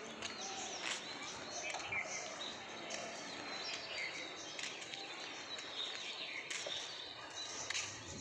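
Small birds chirping and calling over a steady hum of distant outdoor noise.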